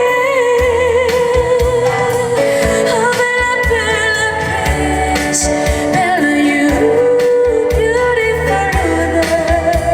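A woman singing a pop song live over band accompaniment, holding long notes with vibrato.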